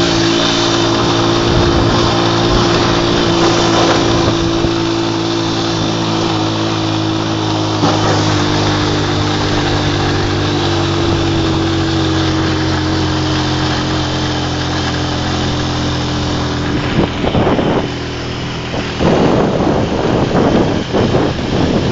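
Motorized tricycle's engine running steadily at speed, heard from on board with wind and road noise over it. The engine note eases slightly lower past the middle, and gusts of wind buffet the microphone near the end.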